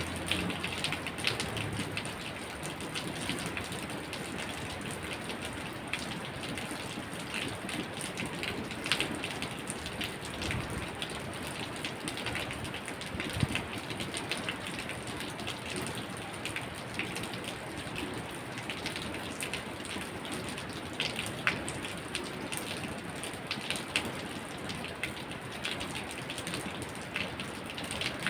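Steady rain falling, with many separate drops ticking sharply on a surface throughout.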